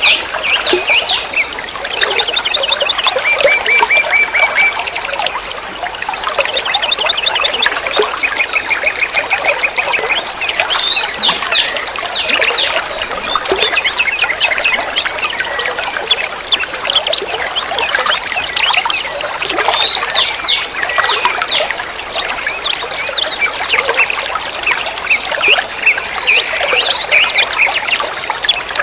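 Songbird singing a busy, chattering song full of quick notes, with runs of rapidly repeated notes.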